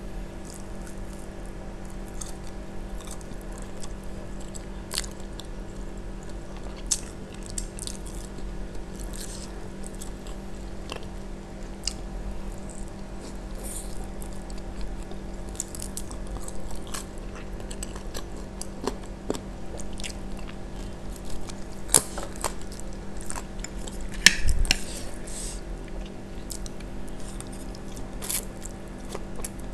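Close-miked eating: chewing and biting into grilled chicken, then mouthfuls of instant fried noodles, with many short wet mouth clicks and smacks. A louder cluster of eating noise comes about three quarters of the way through.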